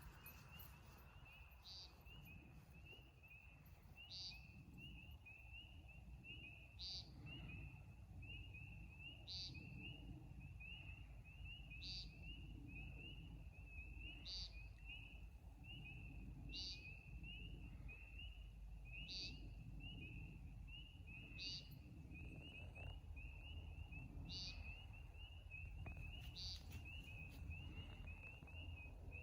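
American woodcock giving its short, buzzy 'peent' call from the ground, repeated about every two and a half seconds, eleven times in all. It is faint, over a steady chorus of rapid, high chirps.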